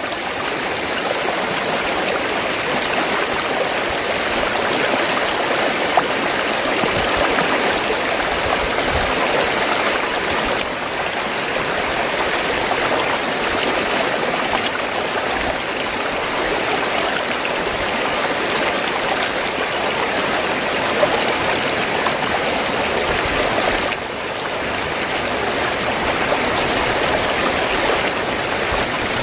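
Fast-flowing stream, water rushing and gurgling steadily, with slight dips in level twice.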